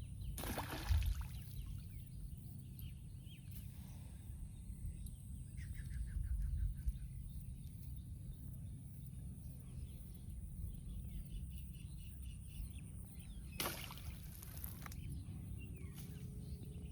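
Small birds chirping over a steady low rumble, with a short trill about six seconds in. Two brief rustling or splashing noises, one just after the start and one near the end, stand out as the loudest moments.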